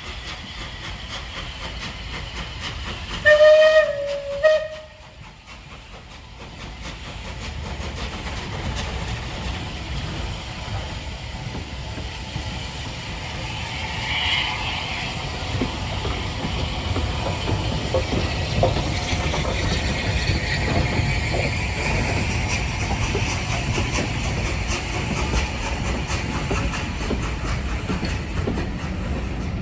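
Steam locomotive whistle, one long blast and a brief second one about three seconds in, the loudest sound here. Then the train comes nearer and the noise of its running builds and holds steady.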